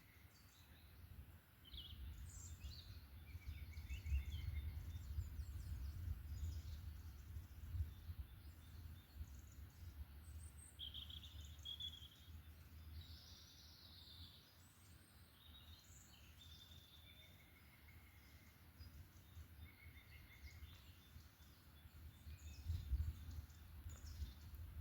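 Several songbirds calling and singing with short chirps and brief trills, over a low, gusty rumble that swells early on and again near the end.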